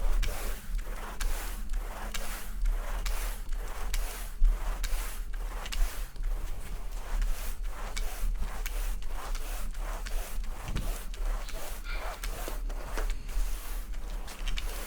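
A brush scrubbing a rug's pile in steady back-and-forth strokes, about two a second, working freshly applied fibre protector evenly into the fibres.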